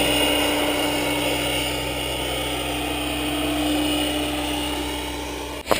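Turbine-powered RC helicopter in flight: a steady turbine and rotor whine that slowly fades, with a sudden break near the end.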